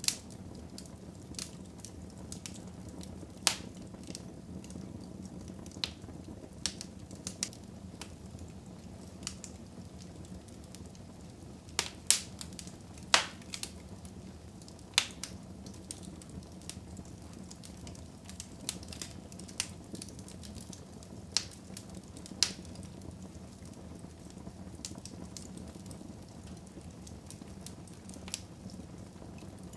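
Wood fire burning in a fireplace: a steady low rush of flames with irregular sharp crackles and pops, a few louder ones about halfway through.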